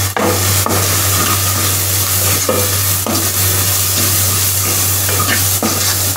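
Chopped onions sizzling steadily in ghee in a nonstick kadai while a wooden spatula stirs and scrapes through them, with a few sharp knocks of the spatula against the pan.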